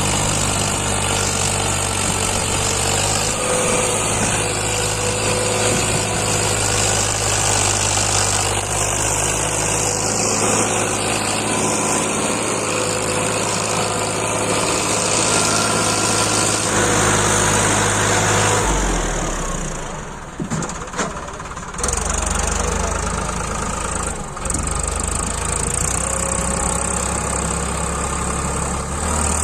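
Farmtrac 60 tractor's diesel engine running steadily. About two-thirds of the way in its note changes and the sound dips briefly, then the steady running resumes.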